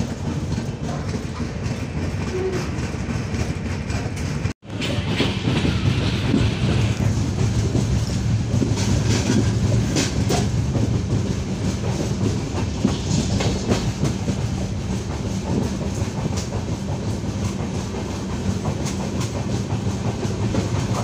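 Mandovi Express coach running along the track, heard from the open doorway: a steady rumble of wheels on rail with scattered sharp clicks. The sound cuts out for an instant about four and a half seconds in.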